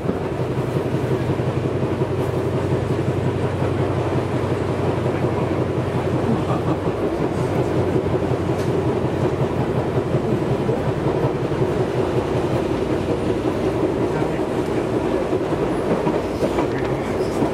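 Interior running noise of a Tobu 6050 series electric train at speed: a steady rumble of the wheels on the rails. A low hum is strong over the first several seconds and fades about seven seconds in.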